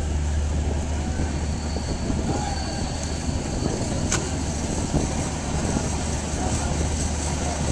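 Train running on the rails: a steady low rumble with irregular light knocks and rattles, and one sharp click about four seconds in.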